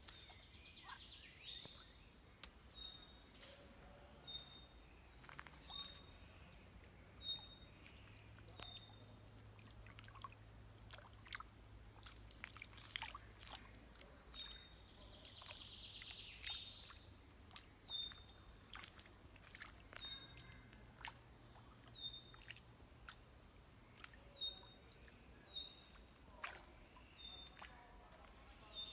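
Birds calling: one repeats a short high note about once a second, with a few busier bursts of chirping, over faint scattered clicks.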